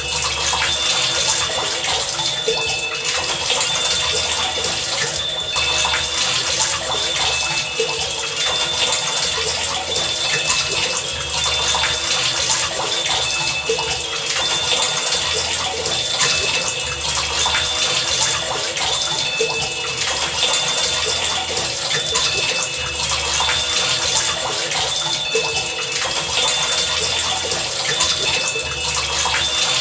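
Heavy rain falling steadily, with a low thud recurring every couple of seconds and short high tones sounding on and off over it.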